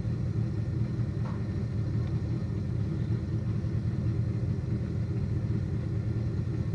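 Chevrolet Corvette C7 Z06's supercharged V8 running with a steady low rumble, holding even revs with no revving.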